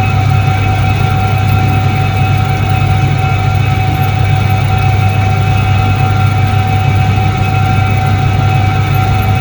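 1978 Soviet Iset-3 washing machine running, its electric motor giving a steady, unbroken low hum with fainter steady whining tones above it.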